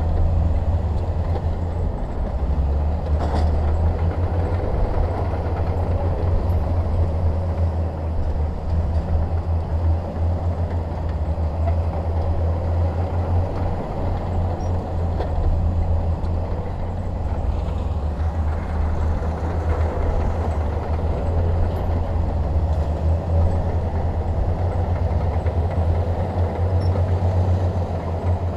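Bulldozer's diesel engine running steadily under load with a continuous low drone.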